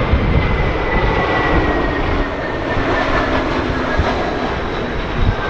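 Jet airliner's engines on landing approach: a steady rumble with a high whine that falls slowly in pitch as it passes, under strong gusty wind buffeting the microphone.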